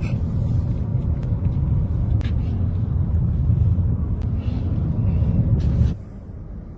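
Steady low rumble of a car driving, with a few faint clicks over it. It drops away abruptly about six seconds in.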